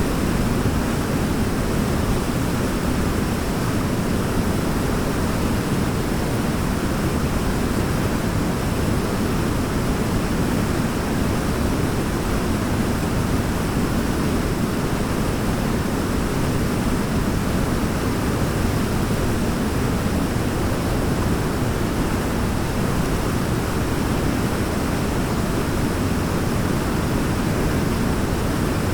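Waterfall running steadily: an even, unbroken rush of water, deepest in the low range.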